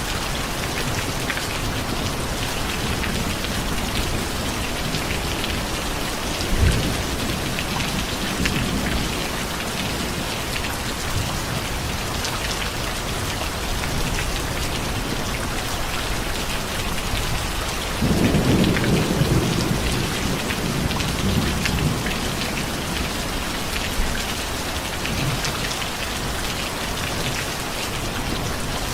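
Steady rain with thunder: a short low clap about a quarter of the way in, and a longer, louder rumble of thunder rolling for a few seconds about two-thirds of the way through.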